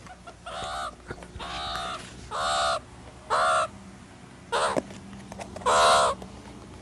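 Meerkat calling: six short calls about a second apart, the last one the loudest.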